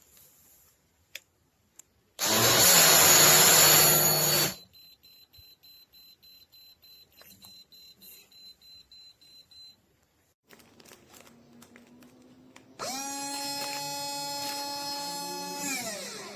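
Battery-powered portable mini blender running in short bursts. A loud, noisy whirr lasts about two seconds, followed by faint clicks. Later comes a steady motor whine of about three seconds that drops in pitch as the motor spins down.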